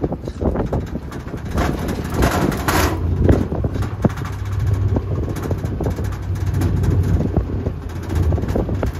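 Open-air 4x4 tour truck driving off-road: a steady low engine and road rumble with scattered knocks and rattles over rough ground, and gusts of wind buffeting the microphone.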